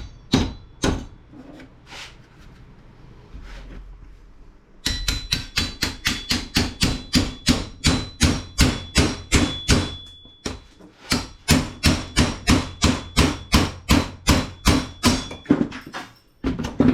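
Hand tool blows on metal: a few separate strikes, then two long runs of steady, rapid blows at about three a second, with a faint metallic ring through them. They are knocking apart a radio coil to free its copper core.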